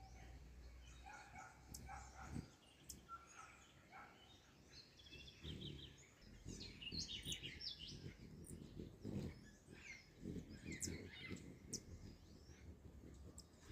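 Faint, scattered chirps and twitters of small birds, over low background noise.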